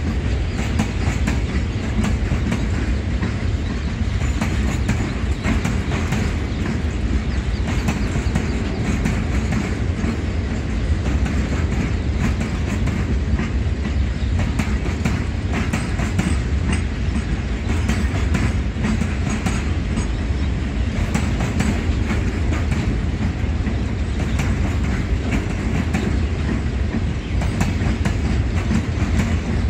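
Long goods train of covered wagons rolling past: a steady rumble of the wagons with frequent clicks of the wheels running over the rail joints.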